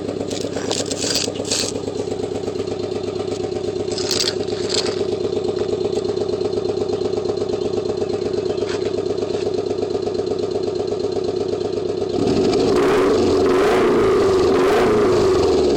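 Nissan KA24 four-cylinder engine idling through an Apexi N1 dual-tip exhaust, then revved and held for about three seconds near the end before dropping back. The owner says the engine has rod knock.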